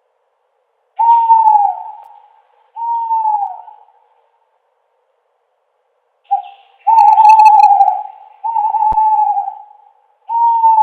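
Owl hooting: a run of hoots about a second long each, most dropping in pitch at the end, with silent gaps between them. There are two hoots early on, then after a pause a short note and three more hoots in close succession.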